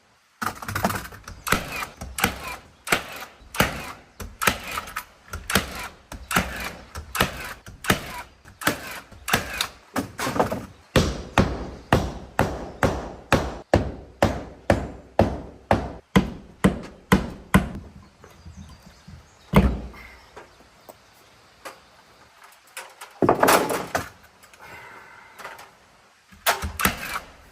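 Nail gun driving nails into plywood siding: a rapid run of sharp shots, about two to three a second, then a pause with a few scattered shots near the end.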